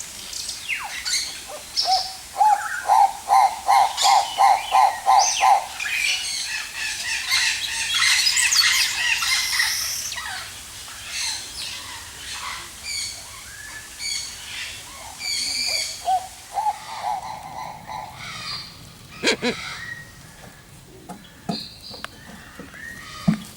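Several birds calling together in an aviary, with many short, high chirps and calls. Early on comes a quick run of about ten lower, evenly spaced notes, and calling is busiest through the middle, then thins out, with a couple of sharp clicks toward the end.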